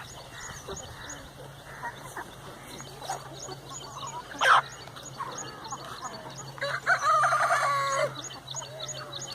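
Chickens clucking on a farm, with a rooster crowing once, loud and drawn out for over a second, about seven seconds in. A brief sharp sound, the loudest moment, comes about four and a half seconds in.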